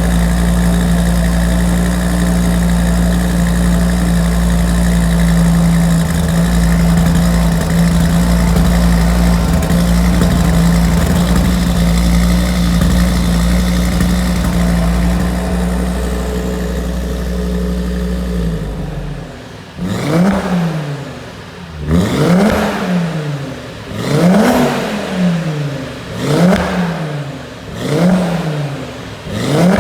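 A car engine running at a steady idle, then from about two-thirds of the way through revved up and back down over and over, about one rev every two seconds.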